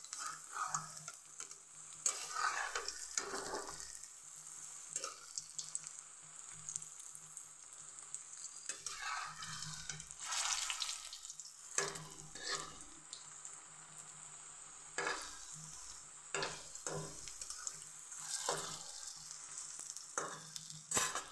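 Capsicum-and-potato tikkis sizzling in hot oil in a kadhai, with repeated scrapes and knocks of a steel spatula against the pan as they are turned over.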